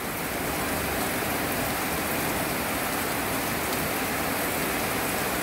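Steady rain falling on a wet gravel yard with puddles and runoff.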